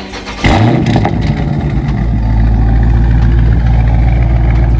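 Dodge Charger or Challenger engine and active exhaust jump suddenly to a loud rev about half a second in, then run steadily. No squeak is heard from the exhaust valves, which have just been lubricated with dry PTFE lube.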